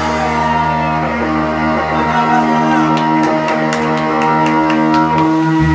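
Live rock band playing an instrumental passage: electric guitar chords held and ringing over the band. The bass drops out about two seconds in and comes back near the end, with a run of light taps in between.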